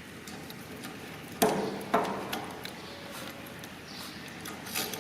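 Steel spanners working on the wheel-mounting bolts: two sharp metal clanks that ring briefly, about a second and a half in and half a second later, amid light clicks of the tools on the bolts.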